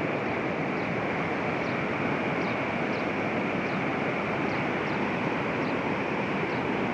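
Swollen river in flood, fast water rushing in a steady, unbroken wash of noise.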